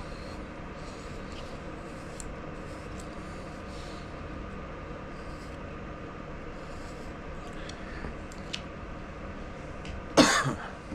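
A man coughing once, sharp and short, about ten seconds in, over a steady low hum.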